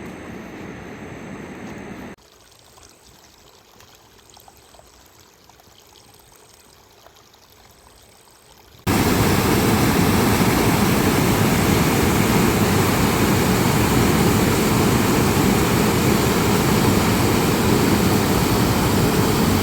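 Rushing water, a loud steady rush with no pitch. It cuts in abruptly about nine seconds in, after a much quieter stretch with faint ticks; the sound also drops suddenly about two seconds in.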